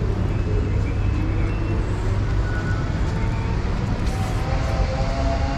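Steady low vehicle rumble, a dense continuous noise with no break.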